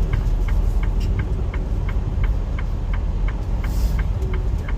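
Semi truck's diesel engine rumbling, heard from inside the cab, with the turn signal ticking evenly about three to four times a second during a tight turn.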